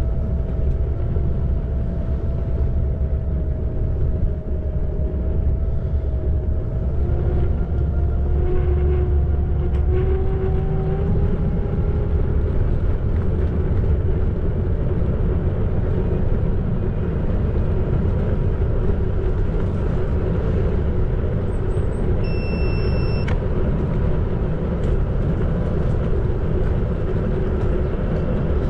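Xiaomi Electric Scooter 4 Pro being ridden: the motor's thin whine rises slowly in pitch over the first dozen seconds as it picks up speed, over a steady heavy rumble of wind and tyres on the road. A brief high beep sounds about two-thirds of the way through.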